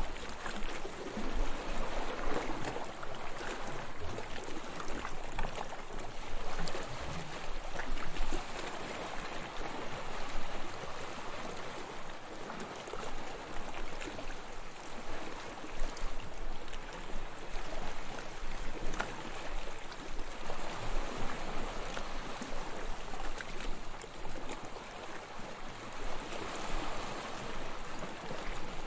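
Sea waves washing in: a steady rush of water that swells and eases every few seconds.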